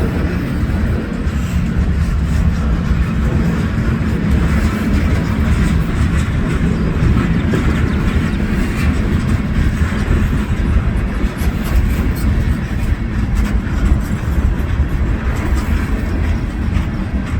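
Train rolling past at close range: a loud, steady low rumble with the clatter of wheels on the rails, holding level throughout without letting up.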